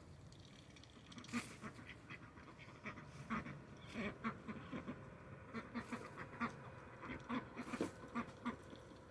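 Domestic ducks quacking in many short, irregular low calls, several a second.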